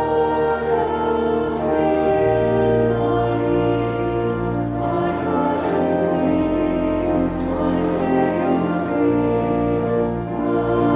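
Church choir singing with organ accompaniment, sustained chords over long held bass notes that change every few seconds.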